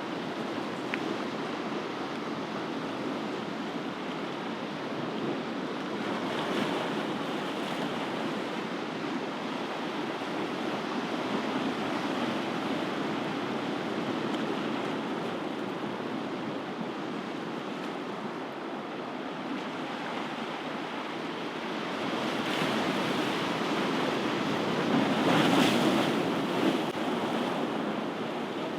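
Ocean surf: waves breaking and washing in as a steady rush. It swells slightly about a quarter of the way in and builds to its loudest wave near the end.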